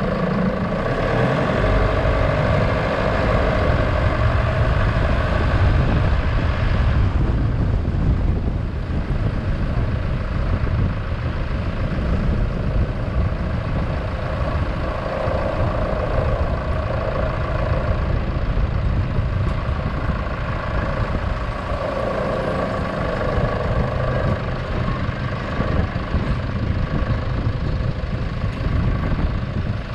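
Steady running of a motor vehicle heard while riding in it: engine hum and road rumble, with no break.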